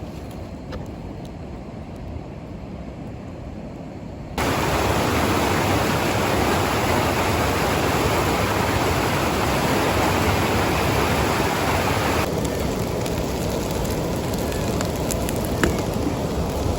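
Gyoza frying in a campfire frying pan: a loud, steady sizzle starts suddenly about four seconds in after a quiet, faint hiss, and its hiss thins somewhat near the end.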